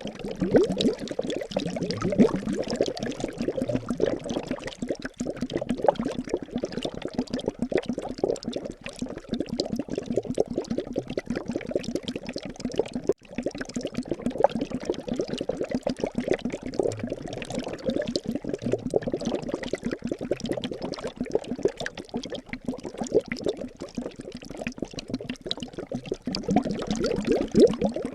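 Liquid bubbling and gurgling steadily, dense with quick small pops, with a brief dropout about thirteen seconds in.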